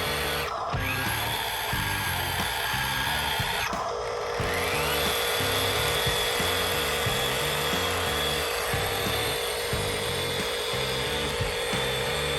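High, steady whine of small electric motors driving radio-controlled construction machines, cutting out briefly twice and spinning back up, over background music with a steady beat.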